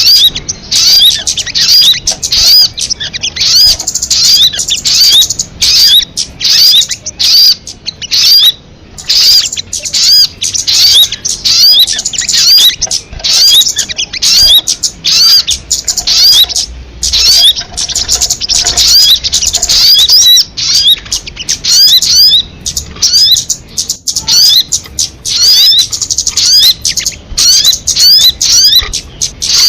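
Recorded song of a sogon bird: a continuous, loud run of high, sweeping chirps repeated several times a second, with only brief pauses.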